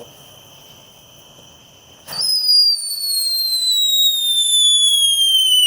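World Class Fireworks 'Alien' fountain firework going off about two seconds in with a sudden burst. It then gives a loud, steady whistle that falls slowly in pitch.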